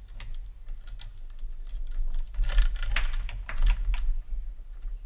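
Irregular light clicks and small metallic rattles of a chainsaw bar and chain being handled and worked onto the saw, which they won't readily go onto for lack of adjustment.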